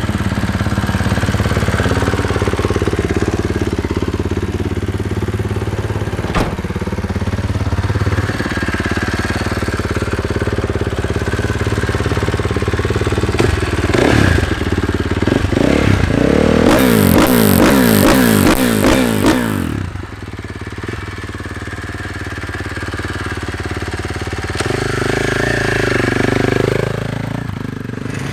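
Four-stroke motocross bike engine running hard, revving up and down as it is ridden round the track. Near the middle the pitch sweeps steeply up and down, and about twenty seconds in the sound cuts suddenly to a quieter engine.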